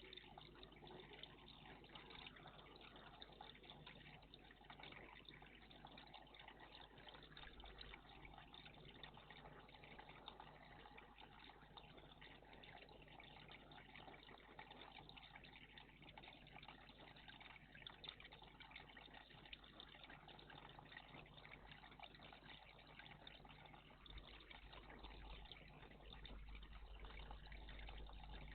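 Faint, steady trickling of water in a garden bird bath.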